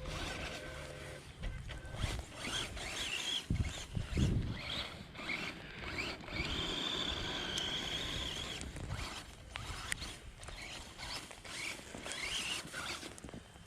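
A JJRC Mad Man remote-control truck's electric 390 motor and gears whining as it is driven through snow, the pitch rising and falling with the throttle. Around the middle the motor holds a steady high whine for a couple of seconds.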